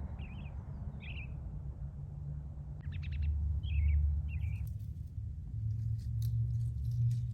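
Birds giving short chirps, several in the first half, over a steady low rumble.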